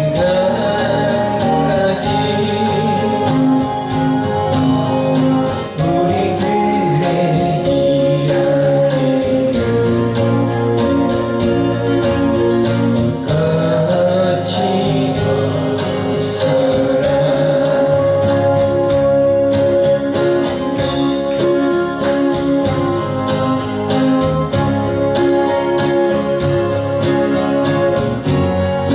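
A Korean folk song sung to acoustic guitar accompaniment, a sustained vocal melody over strummed guitar chords.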